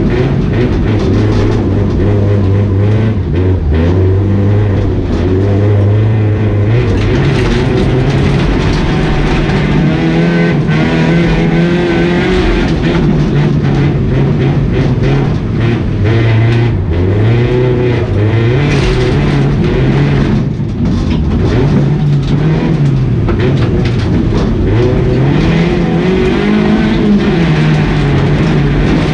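Race car engine heard from inside its stripped cabin, running loud with the revs held steady for the first few seconds, then rising and falling again and again as the driver accelerates and lifts off.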